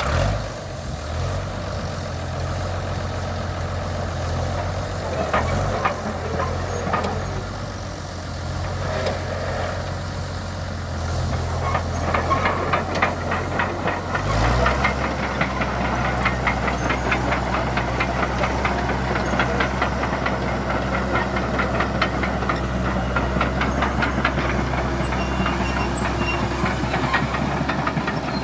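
Fordson County crawler tractor's six-cylinder engine running steadily. About halfway through, its note changes abruptly, and it then runs on evenly with a fast, regular clatter.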